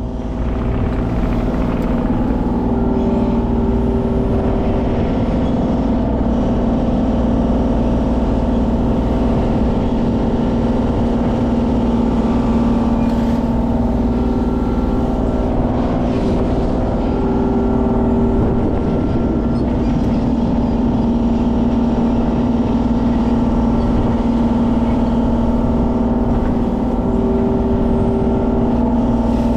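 Kubota mini excavator's diesel engine running steadily at working speed. A higher whine comes in and drops away several times over it.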